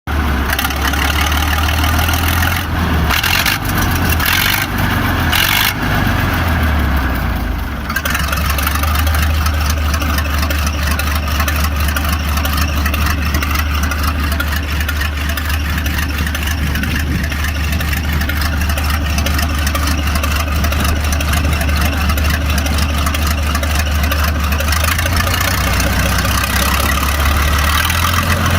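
Preet 987 combine harvester's diesel engine starting and running: uneven for the first several seconds, then running steadily from about eight seconds in.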